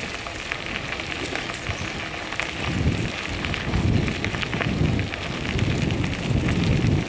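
Bicycle tyres rolling over a crushed-stone trail with a steady crackling, and wind buffeting the helmet-mounted microphone in low rumbling swells.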